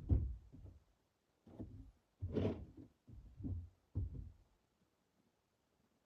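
About six dull, heavy thumps in the first four seconds or so, the loudest about two and a half seconds in.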